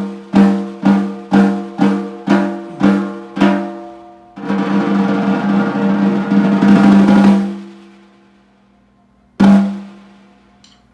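Bird's eye maple stave snare drum, 5.5 x 14 inches, struck in single strokes about twice a second, each ringing with a clear tone and growing quieter. A roll of about three seconds follows, then one final stroke left to ring out near the end.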